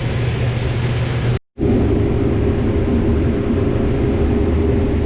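Combine harvester running steadily, heard from inside the cab. The sound cuts out for a moment about a second and a half in, then comes back as a steady drone with a higher hum over it.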